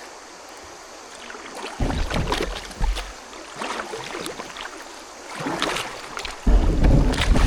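Kayak paddle strokes splashing in a shallow creek, with gusts of wind buffeting the microphone at about two seconds in and again from about six and a half seconds.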